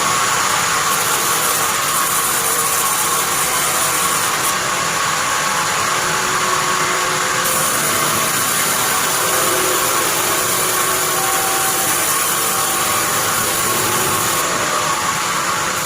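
Sawmill bandsaw running steadily, a continuous even mechanical noise.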